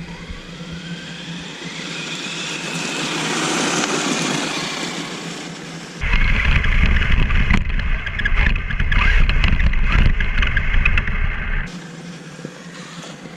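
Electric motor whine of a Traxxas Stampede VXL RC truck driving off, swelling and easing as it speeds past. About six seconds in it switches abruptly to a louder rough rumble with rapid clattering knocks, then drops back near the end.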